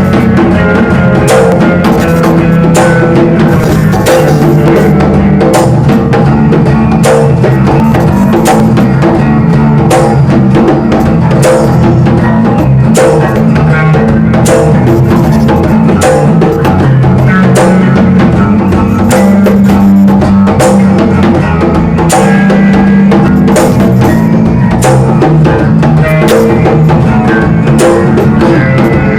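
Electric bass and hand percussion playing an instrumental passage: a sustained bass line under a steady stream of percussion strokes.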